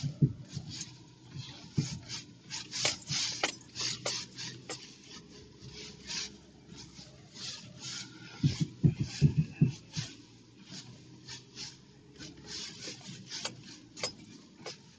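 Irregular scraping and rustling noises in short bursts, with a cluster of low thumps about eight to ten seconds in.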